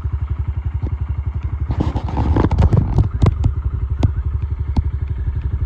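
Honda CRF125F Big Wheel's single-cylinder four-stroke engine idling with an even, rapid putter, with a brief rush of noise about two seconds in and a few light clicks.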